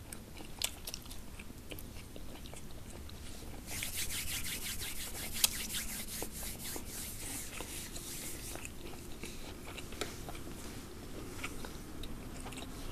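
Close-miked chewing and biting of a crunchy food: small crackling clicks of the bites, growing denser and crisper from about four seconds in, then easing off.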